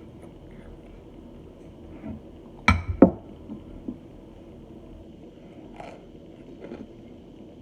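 Mouth sounds of biting into a hard chunk of starch: two loud, sharp crunches in quick succession, then a few quieter crackles of chewing.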